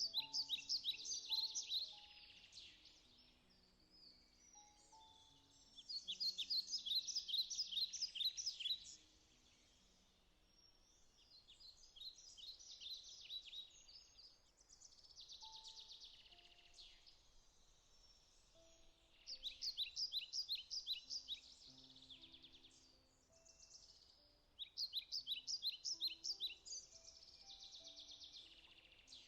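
A songbird singing a rapid, high trilled phrase of quick repeated notes, each phrase lasting two to three seconds and recurring every few seconds, over soft, slow piano notes.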